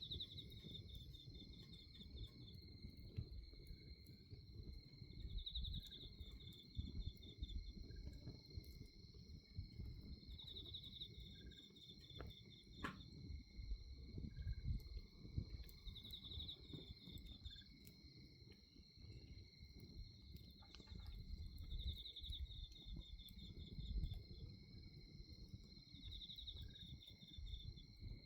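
Night insects calling: crickets keep up two steady high trills, and one insect gives a short pulsed chirping call about every five seconds. Under them, the bonfire gives a low rumble with scattered crackles and pops, one sharper pop about halfway through.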